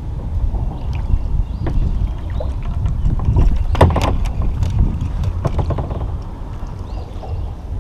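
Wind rumbling on the microphone, with a cluster of sharp clicks and knocks from about three to five and a half seconds in, the loudest near four seconds.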